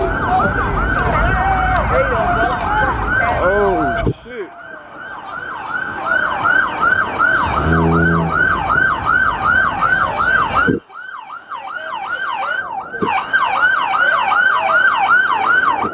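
Police siren in a fast yelp, about three swoops a second. A heavy low rumble sits under it for the first four seconds, and a short horn honk comes about eight seconds in. The sound drops out sharply twice.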